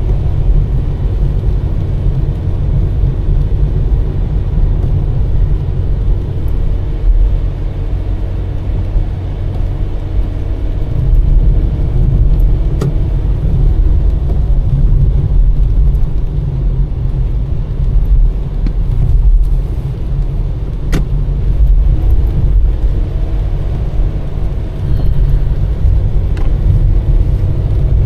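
Car driving at steady speed: a continuous low road and engine rumble, with a few faint clicks.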